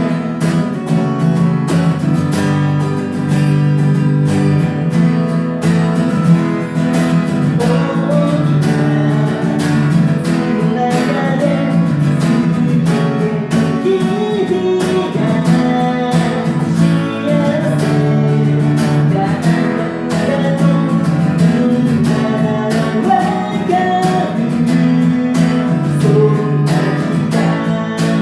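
Music: a song with strummed acoustic guitar, playing steadily.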